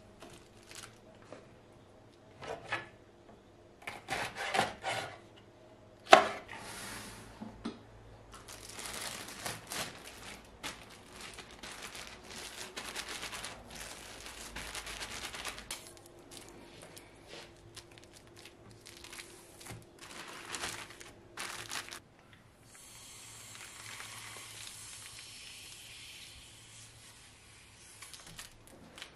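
Kitchen food preparation: a knife chopping and tapping on a cutting board, with dishes and utensils handled. One sharp, loud knock about six seconds in, and a steady hiss lasting several seconds near the end.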